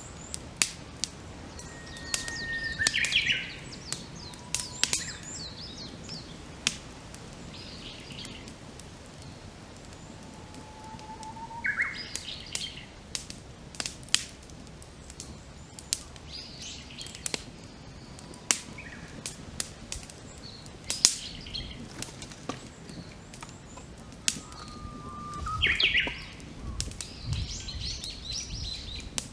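Wood fire crackling with sharp pops scattered throughout, some loud. A songbird sings three times, each phrase a long whistled note that ends in a quick upward flourish.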